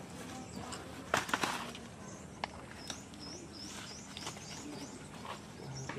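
A small bird chirps a quick run of short, high, rising notes in the middle stretch, with one more near the end. Before that, about a second in, come a few sharp rustles or knocks from hands working at a potted plant.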